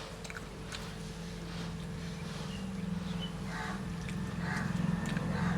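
Close-up eating sounds: chewing with repeated small mouth clicks and smacks as rice and fish curry are eaten by hand. A low hum grows louder toward the end.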